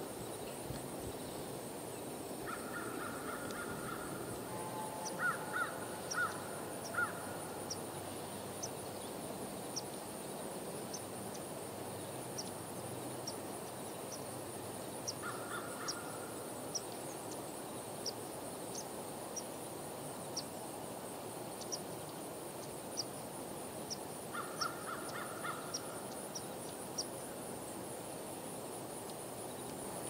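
Birds calling in four short bouts of repeated notes, over a steady high-pitched chirring of insects and scattered faint ticks.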